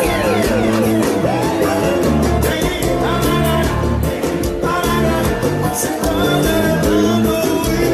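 Live forró band music with a lead vocal over keyboard, bass and a steady percussion beat.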